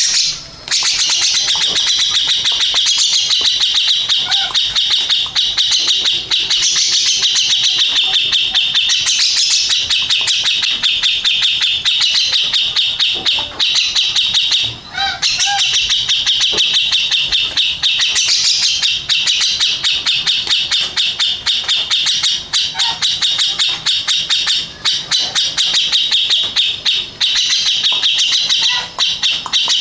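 A grey-cheeked bulbul (cucak jenggot) singing loudly in a fast, unbroken chatter of sharp, high notes. It pauses only briefly about a second in and again around halfway.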